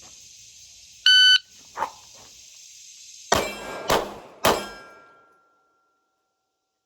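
A shot timer's electronic start beep, then three 9mm pistol shots from a Glock 45 fired one-handed from the draw, a little over half a second apart, each ringing briefly. Insects drone steadily underneath until the shots.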